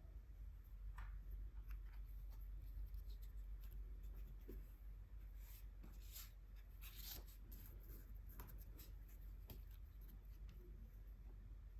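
Faint scratching of art tools on paper while swatching gouache paint, with scattered soft clicks and taps that are busiest midway.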